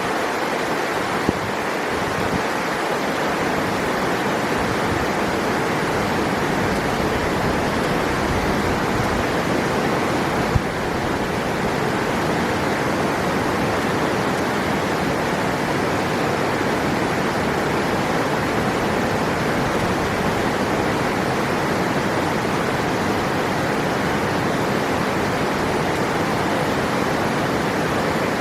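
River water rushing steadily. A single small tick about ten seconds in.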